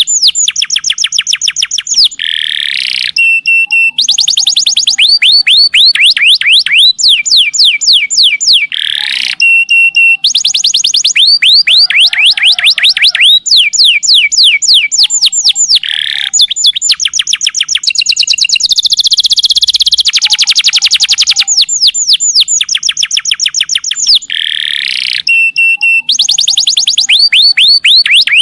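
Domestic canary singing a long, fast song: rolling trills of quick falling notes, about ten a second, in phrases broken by held high whistles and short low notes.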